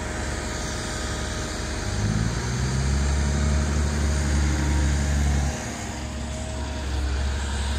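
Diesel engine of a six-wheel dump truck running, with its low engine note growing louder about two seconds in and dropping back a little after five seconds.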